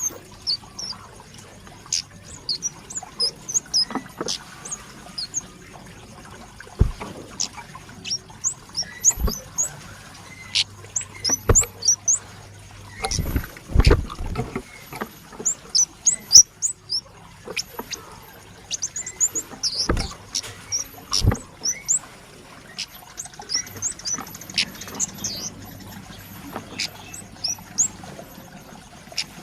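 Young male scarlet-headed flowerpecker (kemade) calling busily: a long run of short, very high-pitched chirps and ticks. Sharp knocks come in between, here and there.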